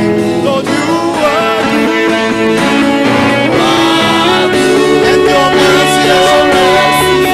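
Live gospel band music: a mostly instrumental passage with a guitar-like lead line that slides between notes over sustained chords.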